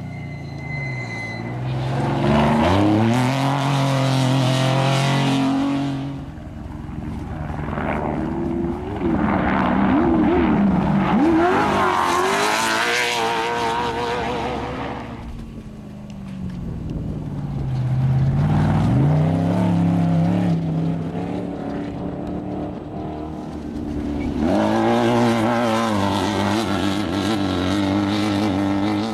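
Off-road race vehicles driving past at speed one after another, engines revving. There are about four loud passes, each rising as it approaches and falling away.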